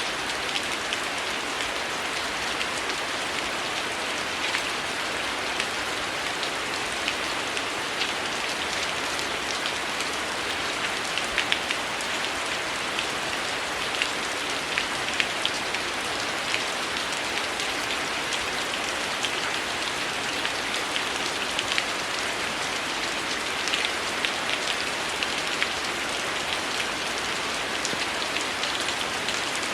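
Steady heavy rain falling on a surface, a dense even hiss with many close, sharp drop impacts ticking through it.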